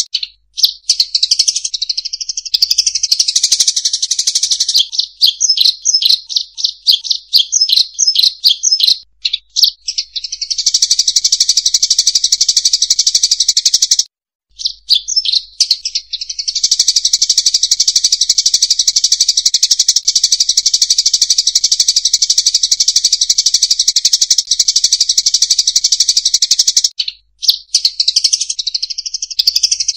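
Munias (rice-field 'emprit') chattering, used as a lure call to draw the birds in: a dense, unbroken mass of rapid high chirps and trills. It breaks off briefly a few times and is choppier for a few seconds before the middle.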